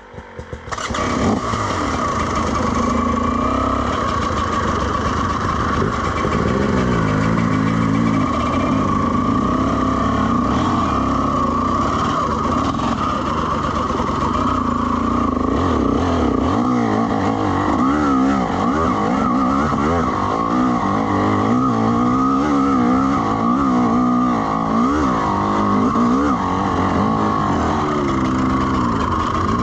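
Two-stroke dirt bike engine pulling away about a second in, then riding with the revs rising and falling continually as the throttle works.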